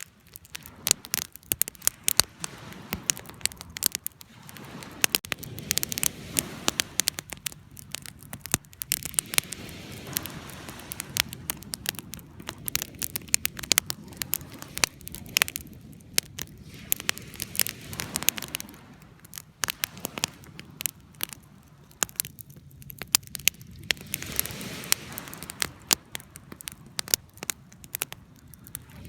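Wood campfire crackling: many irregular sharp snaps and pops over a soft, low rush of the burning logs.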